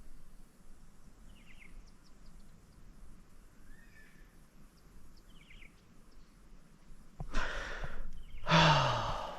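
A person's heavy sigh: a sharp breath in, then a long breathy exhale that trails off into a falling groan. Before it there is only quiet outdoor background with a few short bird chirps.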